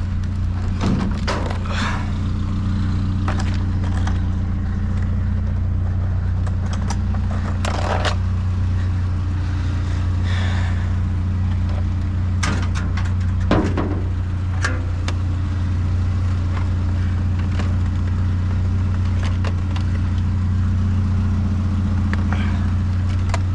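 A vehicle engine running steadily with a constant low hum, with a few short knocks and rattles over it, the loudest about halfway through.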